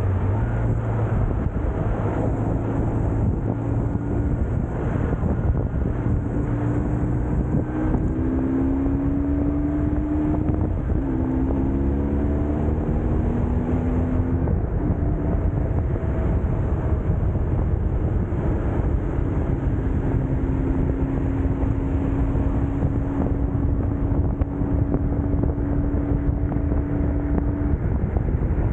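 BMW R1150GS Adventure's air/oil-cooled boxer twin running under way, with wind noise over the microphone. The engine note steps up and down several times around the middle as the rider changes speed.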